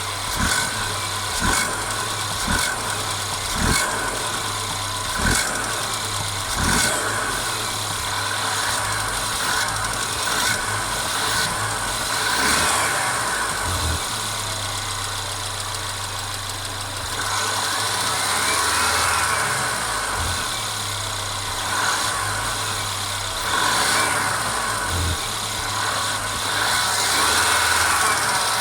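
Mercedes-Benz CLA 250's 2.0-litre turbocharged four-cylinder engine running with a continuous rattle and sharp knocks about once a second in the first several seconds. Its pitch rises and falls briefly past the middle. This is the persistent rattling noise the owner is chasing on this car.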